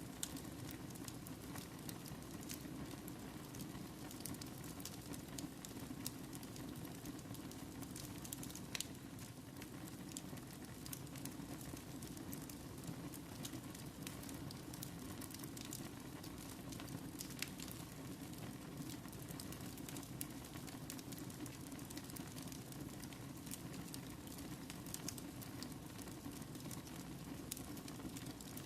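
Fire burning in a fireplace: a steady low rush with scattered crackles and pops.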